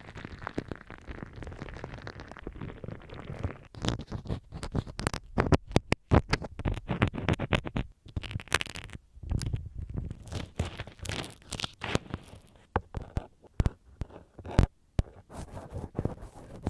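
Ear-cleaning sounds made close against a binaural microphone: rubbing and scratching at first, then dense, irregular sharp clicks and crackles from about four seconds in, with more rubbing between them.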